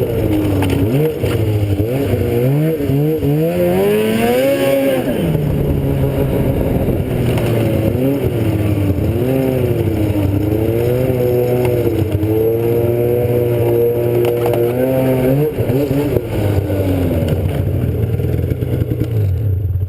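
Engine of a vehicle being driven, running continuously with its pitch rising and falling over and over as it speeds up and slows down. It cuts off suddenly at the end.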